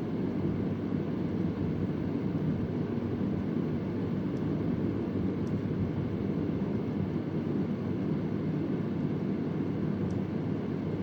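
Vintage Convair oscillating fan running with a steady, low whir. Three faint, irregularly spaced ticks sound in the background, about four, five and a half and ten seconds in.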